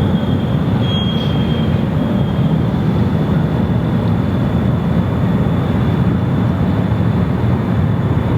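Steady, loud low rumble of an airliner's jet engines, with a faint steady high whine over it.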